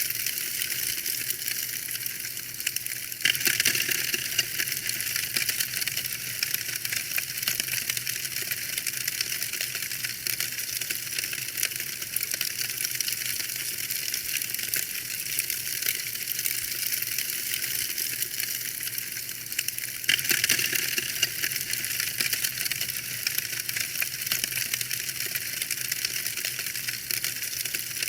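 Wood fire crackling in a fireplace: a dense run of small snaps and pops over a steady hiss, swelling louder about three seconds in and again around twenty seconds.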